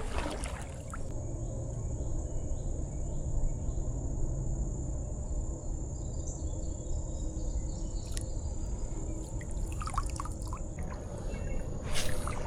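Insects droning in a steady high-pitched whine that cuts off about eleven seconds in, over a steady low rumble of creekside outdoor noise, with a few faint chirps and clicks and a short louder noise near the end.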